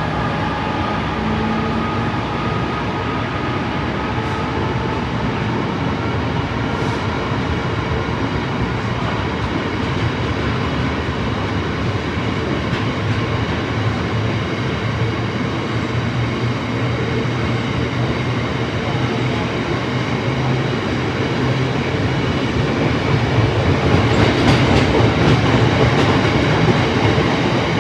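Class 66 diesel-electric locomotive's two-stroke V12 engine running steadily, growing louder for a few seconds near the end.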